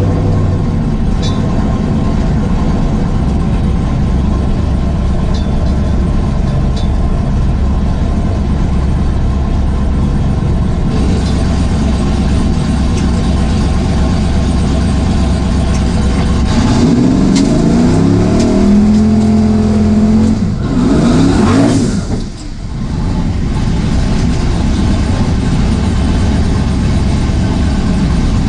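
Boosted engine of a 1978 Camaro drag car running steadily, then climbing in revs in rising sweeps about two-thirds of the way through before dropping off sharply, then running steadily again.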